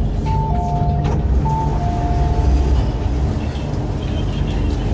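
Electronic two-note chime, high then low, sounding twice, over the steady low hum of an MTR Island Line Q-Train.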